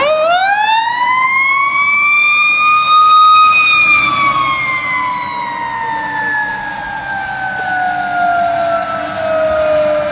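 A fire engine's Federal Q2B mechanical siren spun up again: its wail climbs steeply for about three and a half seconds, peaks briefly, then slowly winds down in pitch as the rotor coasts.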